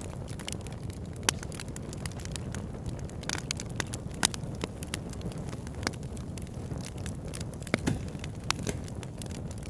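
Wood fire crackling, with a steady low rumble of flames under a continual scatter of small snaps and a few louder pops.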